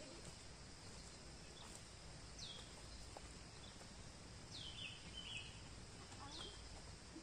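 A bird calling three times, each call a short high whistle sliding down in pitch, with a couple of brief chirps after the second. Faint steady background hiss throughout.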